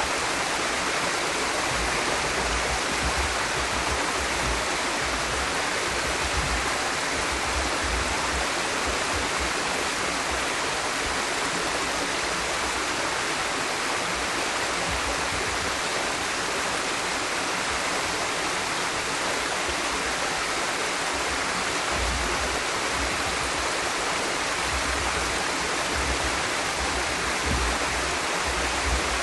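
Waterfall, partly iced over, pouring with a steady rush of water, with an uneven low rumble underneath.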